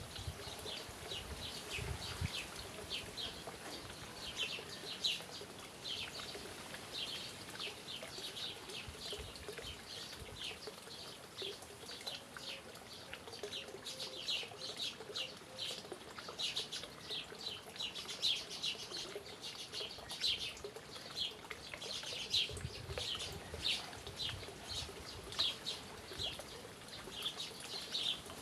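Birds chirping: many short, high chirps, a few a second in an irregular, continuous pattern, with a brief low rumble about two seconds in and again about three-quarters of the way through.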